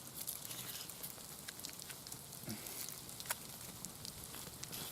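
Faint crackling of a small fire: scattered light ticks and pops, with a sharper pop a little over three seconds in.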